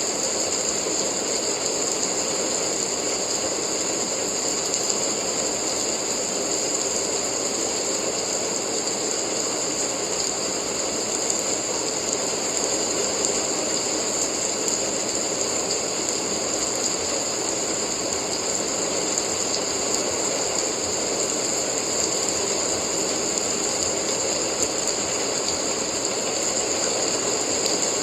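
Steady rain, a dense, even spatter of countless small drops that holds unchanged throughout.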